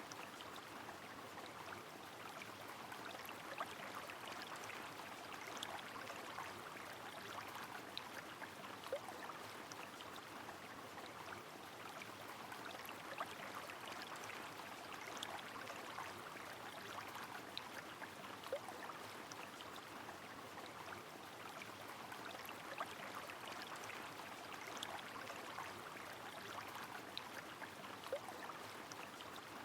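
Rain on a flowing river: a steady wash of running water and rainfall, with scattered sharp ticks of individual drops.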